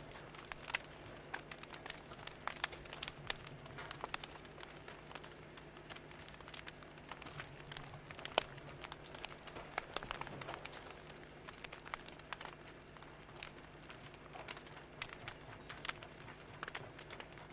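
Wood fire crackling, with irregular sharp pops and snaps over a low steady hiss.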